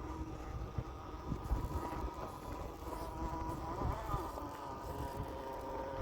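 Axial SCX10 II RC crawler's electric motor and gears whining steadily at low speed, the pitch wavering briefly about four seconds in.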